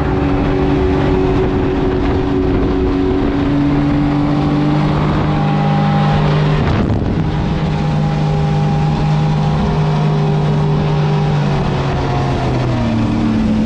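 Motor engine running steadily under way, its pitch stepping up and down a few times as the throttle changes, with wind on the microphone.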